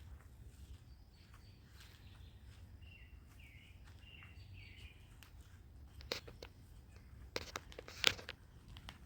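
A bird calling a short run of about five chirping notes over a steady low outdoor rumble, followed by several sharp clicks and taps in the last few seconds.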